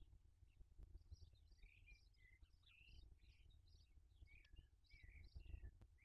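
Faint, high bird chirps: many short notes and little sweeps in quick succession, over a low steady rumble.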